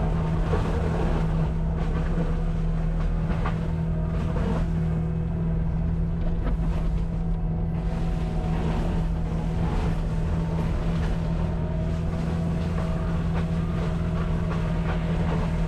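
Cat 259D compact track loader running at high throttle with its hydraulic forestry mulcher head spinning, a steady loud hum with scattered crackling as the drum chews through wood and a stump. The mulcher knives are dull, worn down on cap rock.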